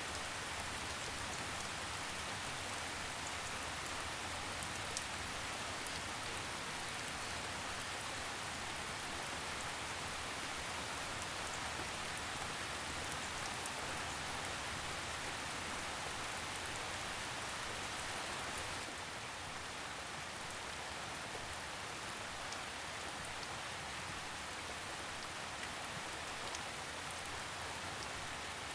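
Steady rainfall with scattered drop ticks, easing a little about two-thirds of the way through.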